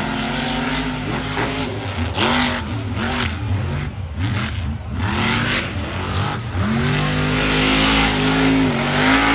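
Monster truck engine revving in a series of short blips that rise and fall, then held at high revs for about two seconds near the end.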